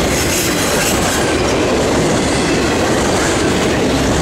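Freight train of enclosed autorack cars rolling past at close range: steady rumble and clatter of steel wheels on the rails as the last cars go by.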